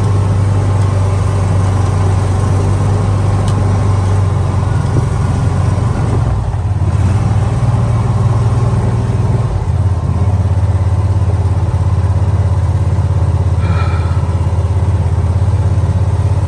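John Deere Gator utility vehicle's engine running under load as it climbs a steep hill, a steady low drone that shifts in pitch about seven seconds in and again near ten seconds.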